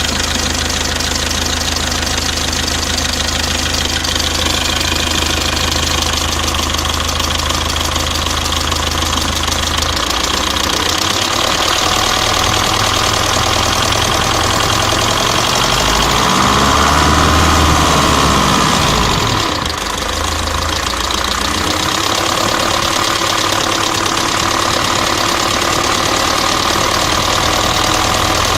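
Mercedes-Benz OM601 2.3-litre four-cylinder diesel engine idling with a knock. The revs rise briefly a little over halfway through, then drop back to idle.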